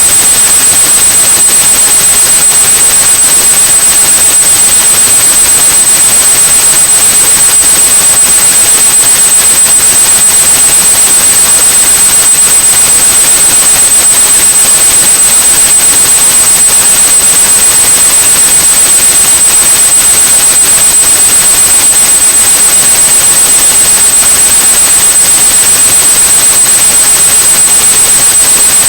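Synthetic white noise, loud and constant, with a steady high-pitched 8100 Hz sine tone held over it: a tinnitus-masking track.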